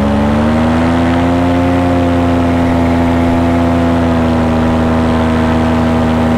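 Paramotor's two-stroke engine and propeller running steadily in flight; the engine note rises a little in the first second, then holds.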